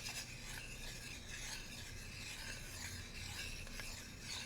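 Bamboo cooking utensils rubbed and scraped, a continuous dry scratching without a break.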